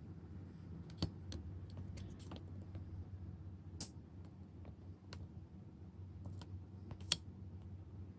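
Irregular small clicks and taps of hand tools and parts being handled during a phone screen repair, two sharper clicks about a second in and about seven seconds in, over a steady low electrical hum.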